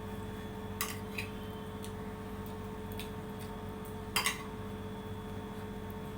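Spoons clinking against bowls while pasta is eaten quickly: a few short sharp clinks, the loudest about four seconds in, over a steady low hum.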